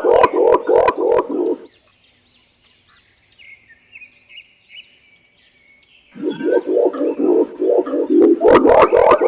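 Green imperial pigeon calling: a fast series of deep, pulsing hoots, about five a second. They stop about one and a half seconds in and start again about six seconds in. Faint high bird chirps fill the gap.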